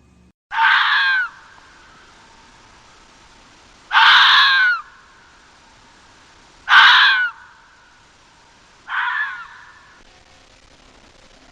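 An animal's harsh, screaming call, given four times, each about half a second to a second long and two to three seconds apart.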